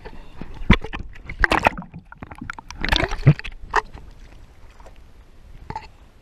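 Water splashing and slapping against a stopped jet ski's hull, with several sharp knocks and a couple of louder splashes in the first half, then quieter.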